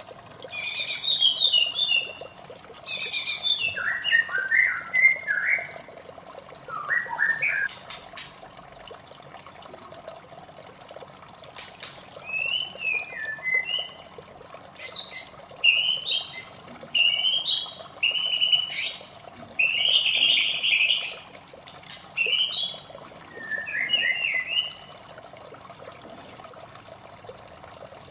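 White-rumped shama singing quick runs of varied, rapidly changing whistled phrases over a steady trickle of running water. The song breaks off for a few seconds near the middle, then resumes, and stops a few seconds before the end.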